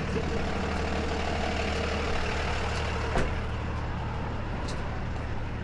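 Tow truck engine idling steadily, with a single short click about three seconds in.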